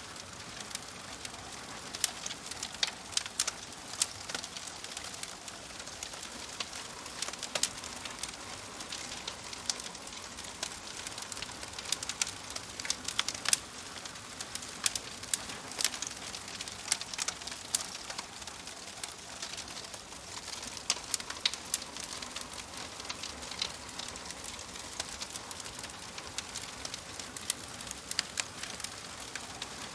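Wood fire burning in a fireplace, crackling and popping with frequent irregular sharp snaps over a steady hiss.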